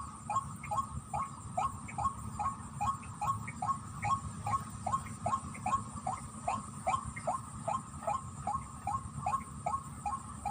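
White-breasted waterhen (ruak-ruak) calling: a fast, steady series of short notes, each sliding down in pitch, about two and a half a second, of the kind used to lure the birds. A low, steady rumble lies underneath.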